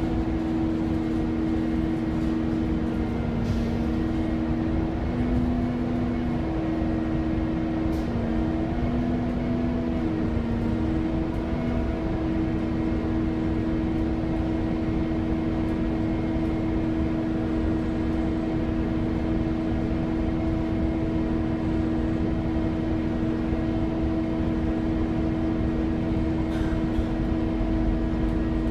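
Scania K230UB city bus heard from on board, its Scania DC9 9.3-litre diesel running at a steady, unchanging speed with a constant hum. There are a few faint clicks from the cabin.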